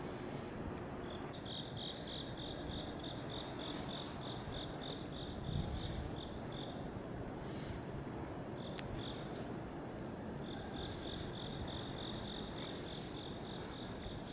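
Crickets chirping in a steady pulsed rhythm, about three to four chirps a second. The chirping pauses for a few seconds midway, over a low steady background rumble.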